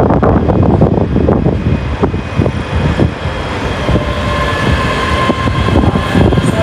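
A train moving through the station, its wheels rumbling and knocking irregularly over the track and pointwork. Thin high steady tones join in during the second half.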